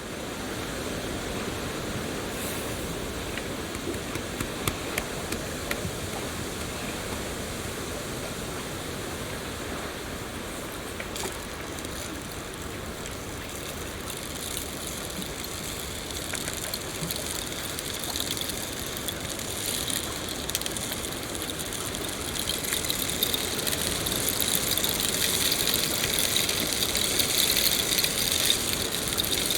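Steady rain falling, a dense hiss with many small drop ticks, growing louder and brighter from about two-thirds of the way in.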